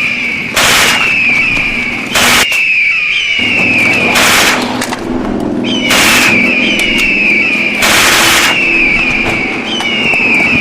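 Birds screeching in a rapid series of short falling calls over a steady low rumble, broken by five loud blasts about every two seconds.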